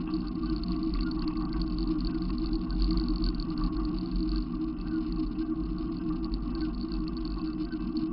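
Steady low engine rumble of a running vehicle.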